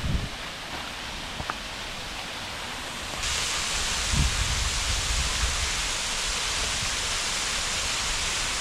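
Waterfall pouring into a deep sinkhole, a steady rush of water. About three seconds in the rush turns suddenly louder and brighter, with a couple of low thumps near the start and about four seconds in.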